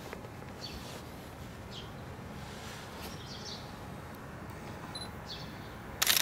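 Steady outdoor street ambience with scattered short, high bird chirps, and a brief loud burst of noise right at the end.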